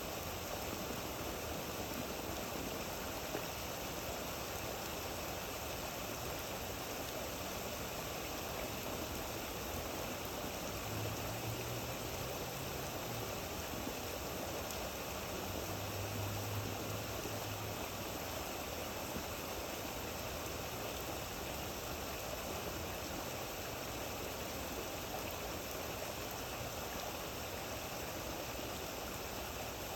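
Steady rain falling, an even hiss with no breaks. A faint low hum comes in briefly twice near the middle.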